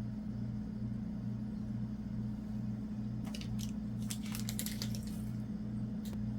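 A steady low electrical-sounding hum with a slow pulse, about two beats a second, under bursts of crackling clicks: a short cluster about three seconds in, a longer run a second later, and one more click near the end.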